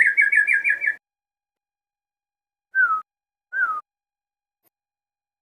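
A crossbred murai, a shama-type songbird, singing: a quick trill of repeated whistled notes that stops about a second in, then two short falling whistles a moment apart.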